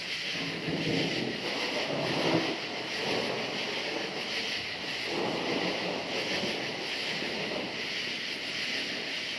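Steady chorus of crickets with two long, rolling rumbles of distant thunder, the first in the opening few seconds and the second starting about five seconds in.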